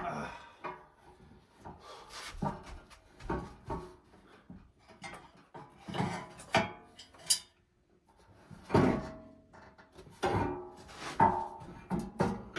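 Irregular knocks, clunks and scrapes of hand tools and metal parts being handled while the rear end of a riding mower is taken apart, with a sharp click about seven seconds in.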